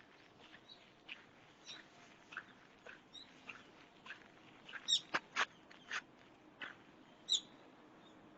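Birds calling in short, sharp chirps scattered irregularly, the loudest cluster about halfway through and one more loud chirp near the end.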